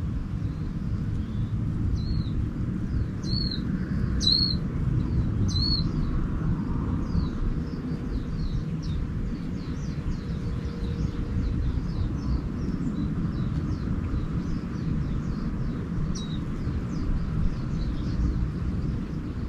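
Small songbirds calling: four clear arched chirps between about two and six seconds in, then a long run of faint, rapid twittering, over a steady low rumble.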